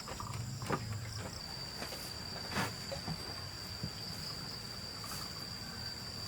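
Insects, likely field crickets, trilling in one steady high-pitched tone, with a few short sharp knocks and scrapes over it.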